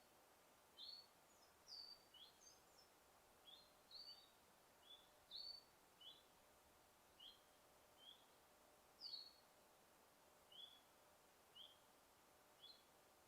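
Birds chirping: short, high chirps about once a second, some quickly paired, over a faint steady hiss.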